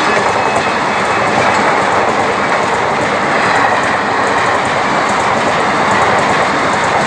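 Coaches of an Indian Railways passenger train passing close by at speed: a steady, loud noise of wheels running on the rails.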